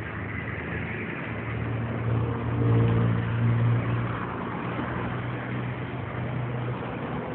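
A motor vehicle's engine running at a steady low hum, louder a little under halfway through and then easing off, over street noise.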